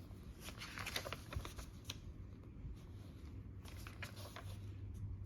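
Journal pages thick with stickers and pasted paper being turned and handled: soft paper rustles and light taps, in short bunches about a second in and again near four seconds in.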